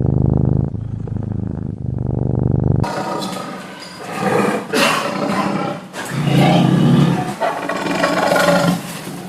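Farm animal calls: a low throbbing call, then an abrupt cut about three seconds in to a brighter recording of several separate calls, each about half a second to a second long.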